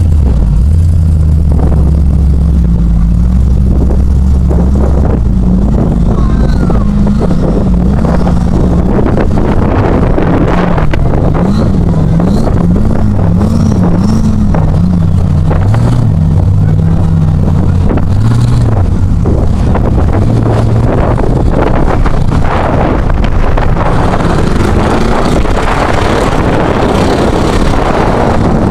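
Off-road 4x4 engine revving up and down over and over, loud and close, as the vehicle works through a mud bog.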